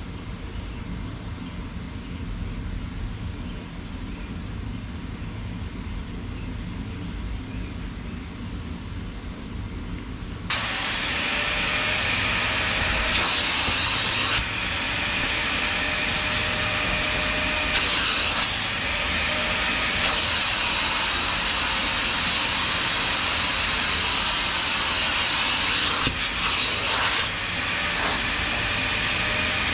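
A low steady rumble, then about ten seconds in a loud, steady mechanical hiss with a high whine starts suddenly, dropping out and returning briefly a few times.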